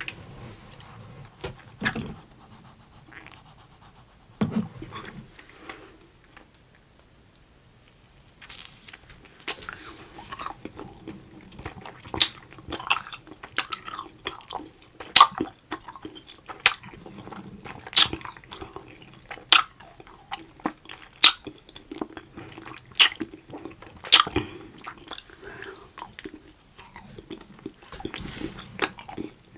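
Close-miked chewing of soft, sticky edible slime candy. Wet mouth clicks and smacks come about once a second, starting around eight seconds in after a quieter stretch.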